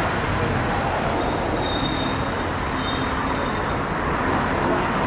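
Steady rumbling vehicle noise, with a few faint high-pitched squeals in the middle.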